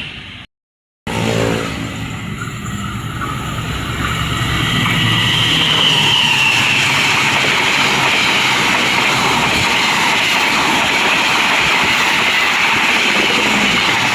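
A train approaching and passing close by: the rumble and rail noise build over a few seconds and then stay loud and steady.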